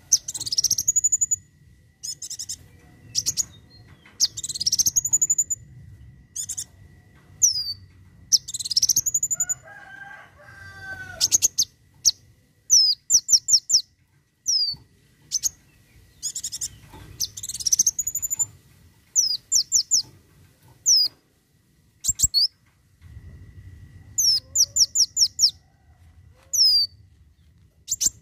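A kolibri wulung sunbird singing: quick bursts of sharp, high chirps, fired several notes at a time, mixed with sweeping upward notes. This is the rapid-fire 'tembakan' song kept as a tutor recording for contest birds. About ten seconds in, a lower curved call joins briefly.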